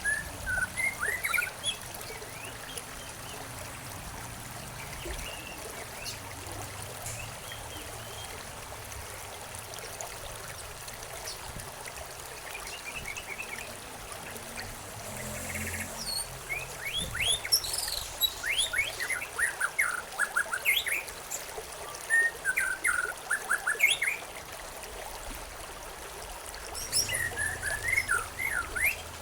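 Songbirds chirping in clusters of short, quick notes, busiest in the second half and again near the end, over a steady trickle of running water.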